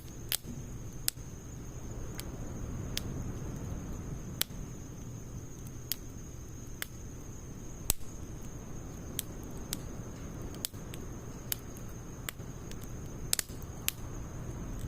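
Wood fire of logs and pine needles burning, crackling with irregularly spaced sharp pops over a steady low noise.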